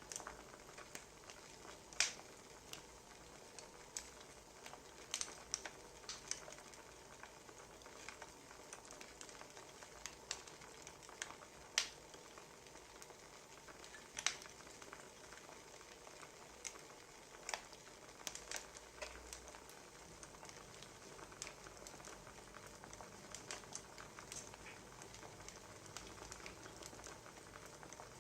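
Wood fire crackling: irregular sharp pops and snaps over a faint steady hiss, with the loudest pops about two seconds in and midway through.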